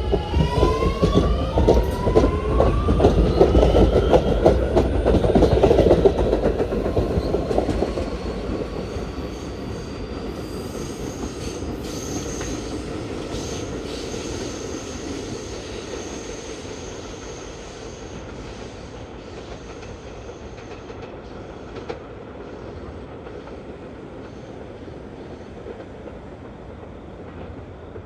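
Kawasaki R211S electric train pulling out of the station. Its motors give a whine that rises in pitch through several tones as it speeds up, over wheel and rail noise. It is loudest in the first several seconds, then fades steadily as the train moves away.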